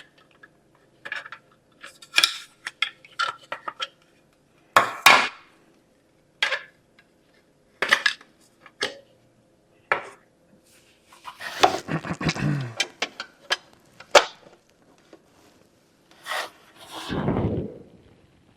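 Parts of a bird feeder kit being handled and fitted together: a string of sharp clicks and knocks, with scraping and rubbing twice, the longer stretch a little past halfway.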